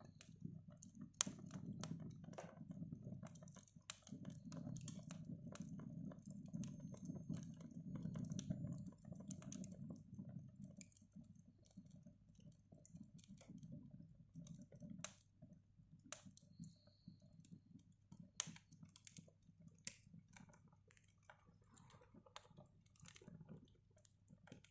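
Wood fire in a fireplace crackling: scattered sharp pops and snaps over a low rumble that weakens about ten seconds in.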